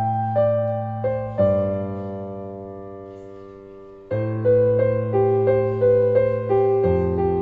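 Slow piano music: single notes over sustained bass chords, each note struck and fading, with one long chord left to die away near the middle before the playing picks up again about four seconds in.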